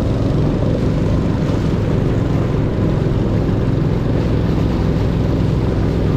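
Longtail boat engine running steadily under way, a loud low drone with no change in pitch.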